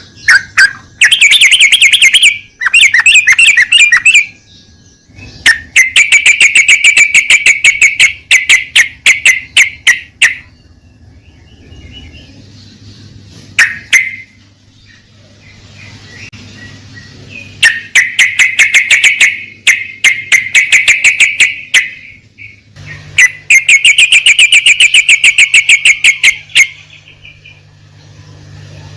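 Yellow-vented bulbul (trucukan) song: about half a dozen loud bouts of rapid, repeated chattering notes, some lasting several seconds, separated by short pauses. A faint steady low hum runs underneath.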